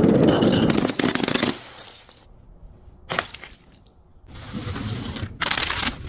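Crunching and cracking of objects being crushed, with breaking-glass sounds: a loud crackling burst for about a second and a half at the start, a single sharp crack about three seconds in, and another loud burst near the end.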